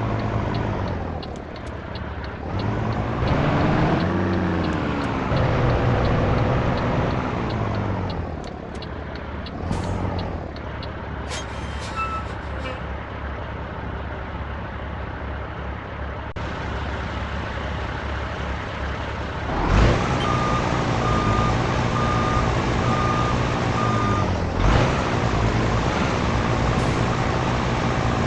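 Heavy diesel truck engine running, its pitch climbing and dropping through revs and gear changes. Later it settles steadier while a reversing alarm beeps repeatedly for a few seconds.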